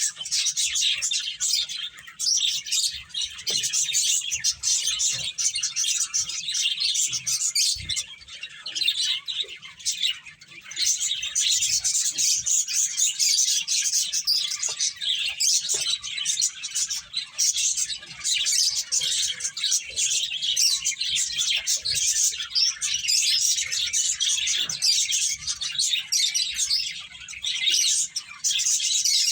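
A group of pet finches chirping continuously, many short high-pitched calls overlapping, with a few brief lulls.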